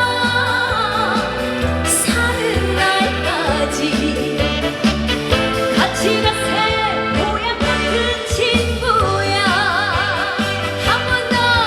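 A woman singing a trot song live with strong vibrato over amplified instrumental accompaniment with a steady bass pulse.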